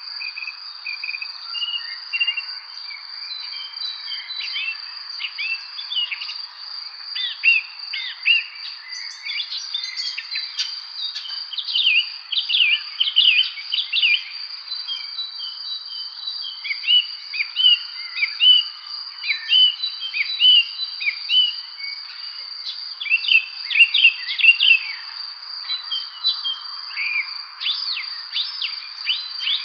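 Songbirds chirping in a busy evening chorus of many short calls and quick notes, over a steady high-pitched insect trill that never breaks.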